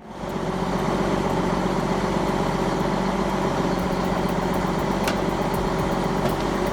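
Heavy truck engine running steadily at a low, even pitch.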